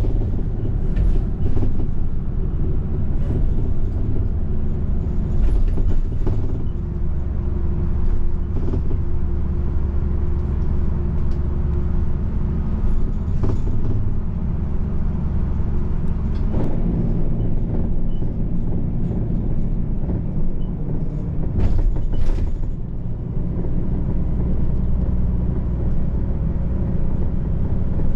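Interior of a moving diesel vehicle: a steady low engine drone and ride rumble, with a few brief knocks and rattles.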